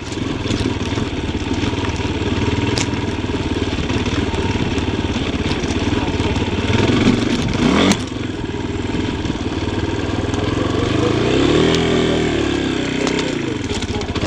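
Yamaha Tricker XG250's single-cylinder four-stroke engine running as the trail bike is ridden, the revs rising and falling with the throttle, including one rise and fall near the end. A sharp knock about halfway through.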